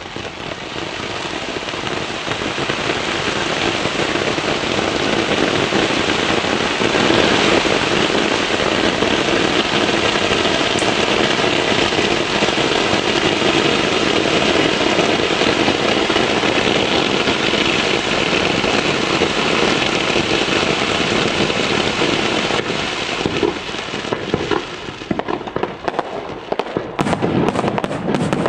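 Fireworks display: a dense, continuous barrage of bursts that builds over the first few seconds and holds steady, then thins near the end into separate bangs.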